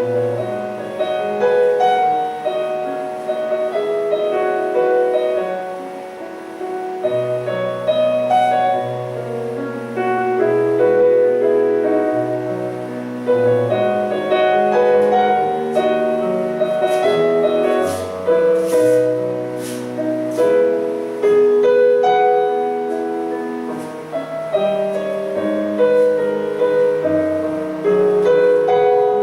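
Slow, gentle piano music: a flowing melody over held chords and a bass line.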